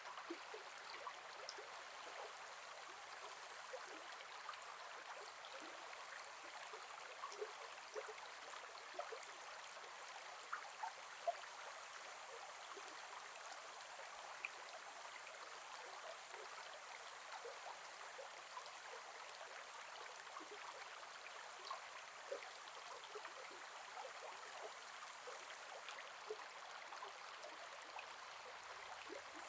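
Gentle forest river flowing: a steady, soft rush of water with many small bubbling plinks scattered over it.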